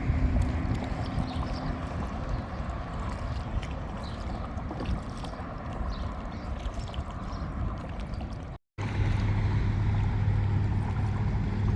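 Wind rumbling on the microphone over water, with scattered faint splashes and drips from paddling a kayak. After a brief cut near the end, a steady low drone comes in.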